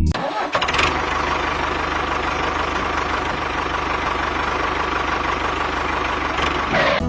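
Small engine of a homemade mini tractor running steadily at an even speed, with a fast, regular firing pulse.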